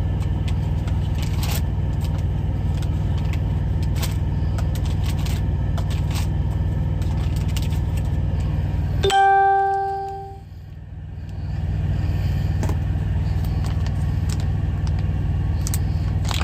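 Steady low hum of an idling truck engine heard inside the cab, with light clicks and rustling of someone rummaging for something. About nine seconds in a single bell-like ding rings and fades while the hum briefly drops away, then the hum comes back.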